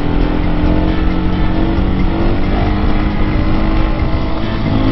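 Husqvarna 701 supermoto's single-cylinder engine running at a steady road speed, its note drifting slightly lower, over heavy low wind rumble on the microphone.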